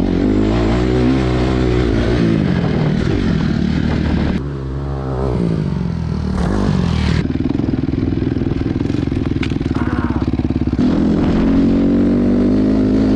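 Honda CRF250 dirt bike's single-cylinder four-stroke engine revving up and down as it is ridden, the sound changing abruptly a few times.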